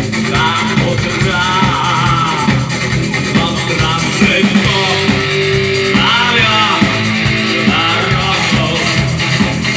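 Rock music played live: guitar-driven band with a male voice singing over it.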